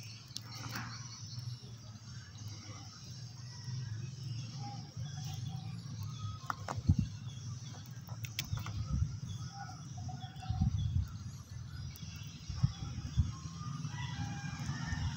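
Birds chirping faintly in short, scattered calls over a low steady hum, with a few sharp knocks from wires being handled.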